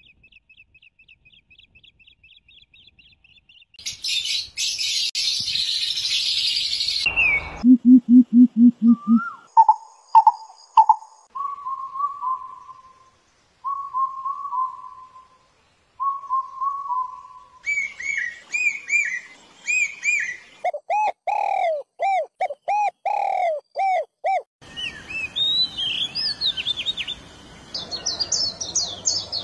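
Different bird calls and songs, one after another, switching abruptly from one kind to the next: a thin trill, then a loud harsh hissing buzz for about three seconds, a run of low pulsed notes, repeated whistled phrases, and fast chirping near the end.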